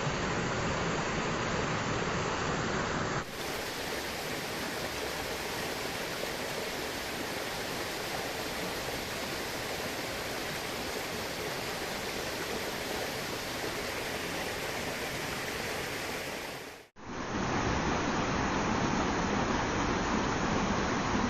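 River water rushing over rocks in a steady hiss of cascading flow. The sound changes abruptly about three seconds in to a slightly quieter, hissier rush, and again near seventeen seconds in after a brief drop-out, back to a fuller rush.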